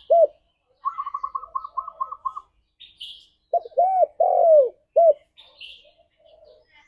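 Spotted dove cooing: a phrase of several arching coos about halfway through. Before it comes a quick run of about nine short, higher notes, and other birds give brief high chirps.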